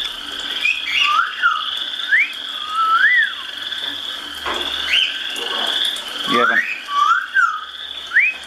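Parrot making a run of short whistles, each gliding up and falling back, over a steady high trilling, with one harsher squawk-like sound about six seconds in.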